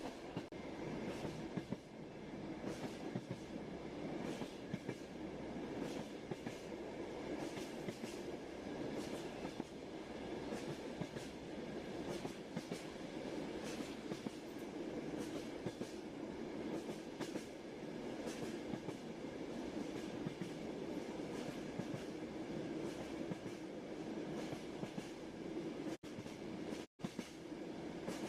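Railway carriage rolling along steadily: a continuous rumble of wheels on track with regular clickety-clack of the wheels passing over rail joints, about once a second. The sound briefly cuts out twice near the end.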